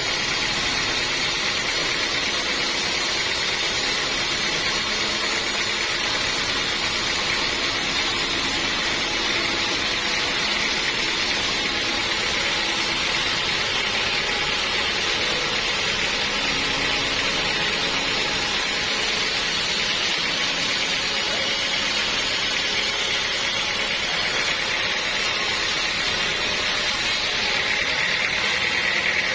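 Sawmill machinery running steadily, the saw working through a large log with a constant whirring hiss. The sound shifts a little near the end.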